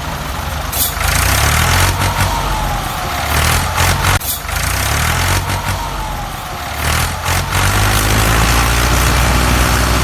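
A motor running steadily with a low rumble, a faint whine that rises and falls in pitch, and scattered sharp knocks.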